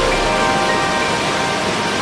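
Steady rushing water of a waterfall, with soft sustained music notes fading out in the background.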